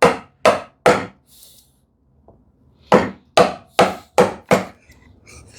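A chisel being struck into wood while chopping out a housing dado: three sharp blows about half a second apart, a short pause with a faint scrape, then five more blows at about two a second.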